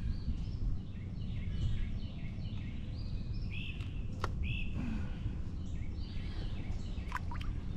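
Small birds chirping, with many short repeated notes, over a steady low outdoor rumble of wind and water. A couple of sharp clicks stand out, one near the middle and one near the end.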